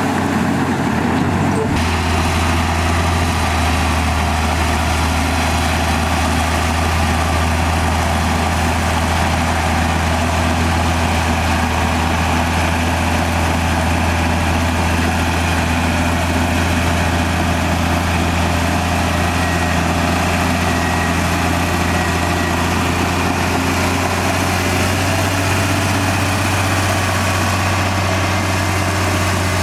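Komatsu D58E bulldozer's diesel engine running with a steady, deep drone that shifts slightly about two seconds in and then holds even.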